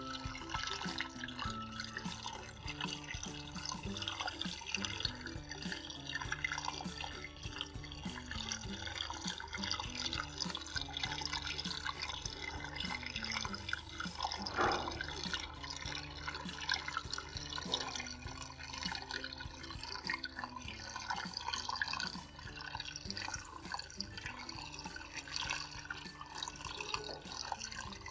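Small cement waterfall fountain running, water trickling and dripping steadily in many quick drops, with background music over it.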